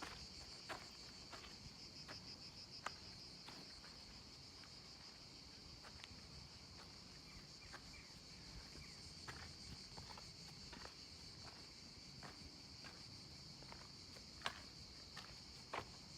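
Insects chirring in one steady high-pitched drone, faint, with irregular footsteps scuffing on the path and a few louder steps near the end.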